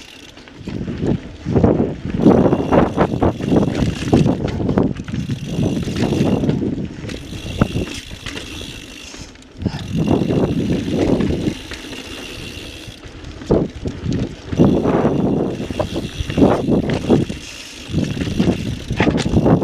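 2017 Intense Recluse carbon full-suspension mountain bike ridden down a rough, muddy trail: tyres rolling over dirt and the bike rattling and knocking in irregular surges.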